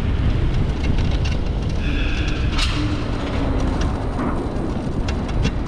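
Wind buffeting the microphone over tyre and road rumble from an Onyx RCR electric bike riding over metal street grates, with scattered sharp clicks and rattles. A short high pitched tone sounds about two seconds in.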